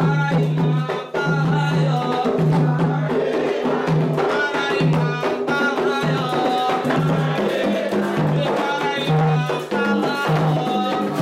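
Candomblé atabaque hand drums, led by the rum, playing a fast, continuous ritual rhythm for Xangô, with other percussion sounding over the drums.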